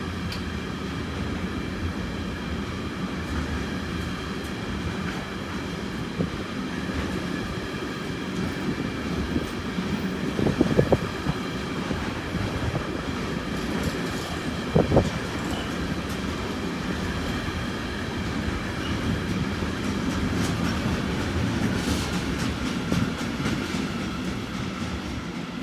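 A train running on the rails: a steady rumble with a faint steady whine above it, light clicks, and two louder knocks, one about eleven seconds in and one about fifteen seconds in.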